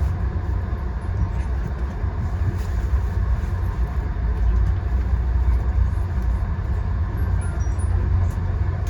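Steady low rumble of a VIA Rail passenger train.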